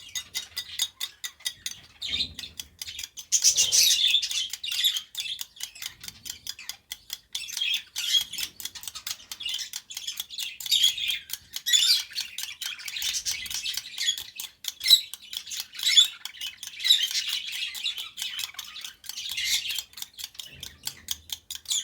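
Lovebirds chirping and squawking, a busy stream of short, high calls repeating several times a second.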